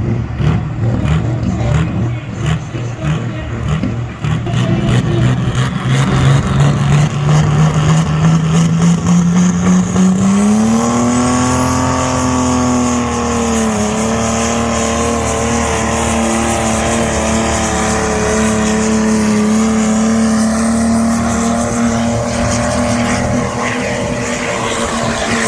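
Pulling tractor's engine under full load hauling the weight sledge: its note climbs steadily, dips briefly about halfway, then holds high and steady to the end. A thin high whine rises in alongside it and holds.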